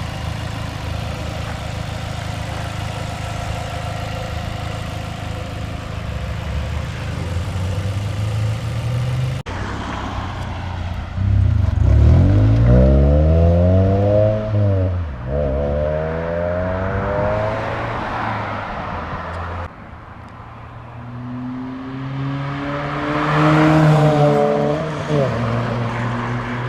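Ford Fiesta ST's 2-litre four-cylinder engine through a Milltek exhaust, running steadily at idle for about nine seconds. After an abrupt break it revs up hard twice in quick succession, its pitch climbing each time. After a second break it rises once more and drops back near the end.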